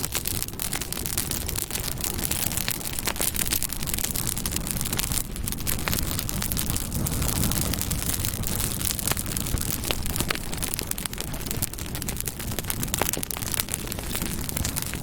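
Campfire burning: wood crackling, with many small sharp pops over a steady low rush.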